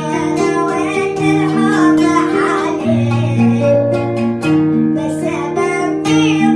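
Music: a sung Arabic song over plucked-string accompaniment, with bass notes held and changing about once a second.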